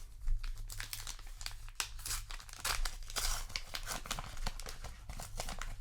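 A trading-card booster pack's paper wrapper being torn open and crinkled by hand, an irregular run of crackling and tearing.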